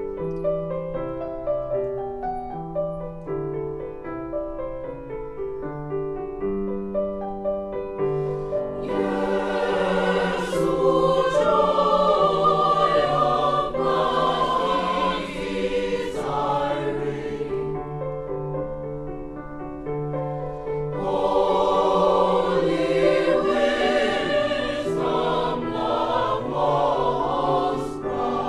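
A school choir singing with piano accompaniment. The piano plays alone for the first several seconds before the voices come in, and the voices drop out briefly partway through while the piano continues.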